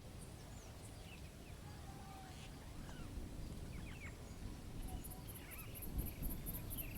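Jungle ambience: faint, scattered bird chirps and whistles over a low rumble. About five seconds in, a high, even pulsing joins, about four pulses a second.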